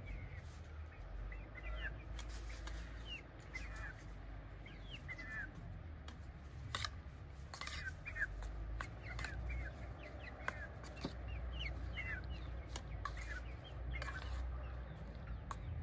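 Birds chirping in short, repeated calls throughout, over a steady low rumble, with a few sharp clicks in the middle.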